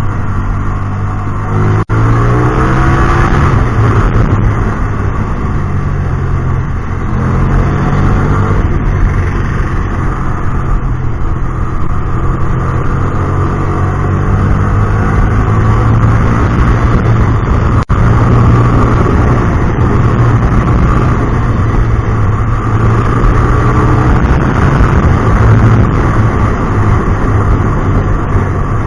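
Hyosung GT250R's 250 cc V-twin engine through an aftermarket exhaust, on the move, its pitch rising and falling again and again as the throttle is opened and closed, with two brief breaks in the sound, about two seconds in and near eighteen seconds.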